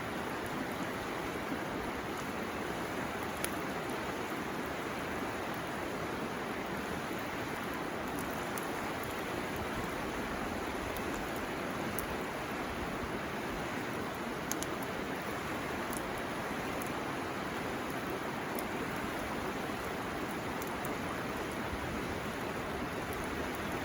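River water flowing steadily, with scattered small sharp crackles from a burning bamboo fire; two louder pops stand out, one about three and a half seconds in and one about fourteen and a half seconds in.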